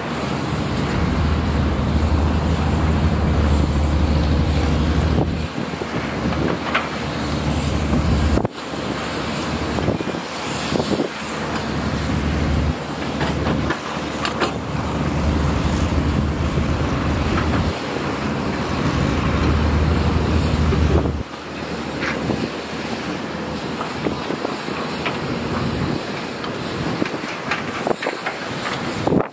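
Diesel engine of a heavy excavator or bulldozer running and working, its low rumble swelling and easing with the load, with wind noise on the microphone. The sound breaks off abruptly about 8 and 21 seconds in.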